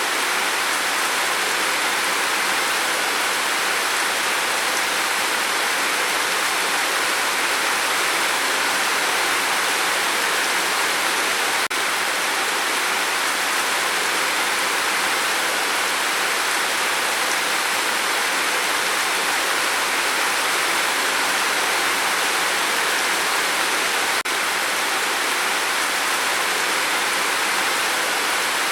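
Steady rain falling: an even, unbroken hiss of water, with two very brief dips in level.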